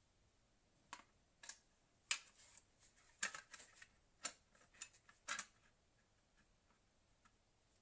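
Sharp clicks and light taps of small hardware parts being handled while a hard drive is fitted into a desktop PC case: about a dozen in the first five and a half seconds, then only a few faint clicks.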